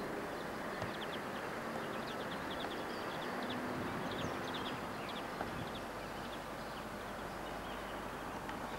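Small birds chirping in quick, scattered high notes over a steady background hiss.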